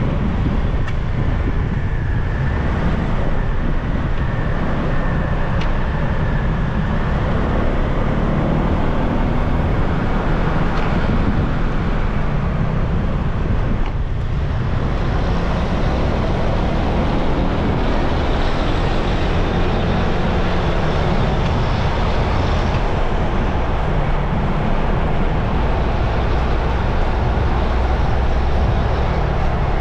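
Motorbike ridden through city traffic: a steady din of engine and road noise, with the sound of other vehicles around it.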